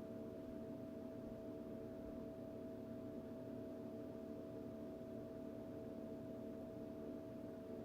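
Quiet, steady electrical hum made of several fixed tones, one higher tone standing out, with no other activity: room tone.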